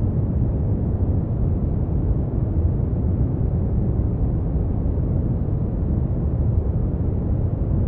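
Steady brown noise: a deep, even rumbling hiss with most of its energy in the low end, fading off above a few kilohertz.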